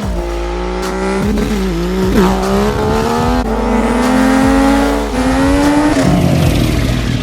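Engine revving hard, its pitch held high and then jumping up and down again and again as the throttle is worked, with tyres squealing under it.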